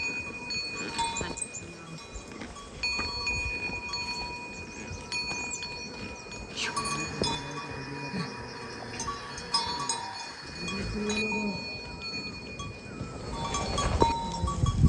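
Bells on grazing livestock ringing and clinking, several steady bell tones that come and go as the animals move.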